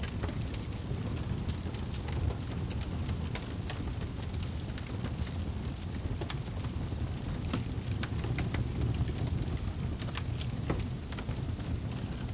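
Wood fire in a fireplace crackling: a steady low rumble of flames with frequent irregular sharp pops and snaps of burning firewood.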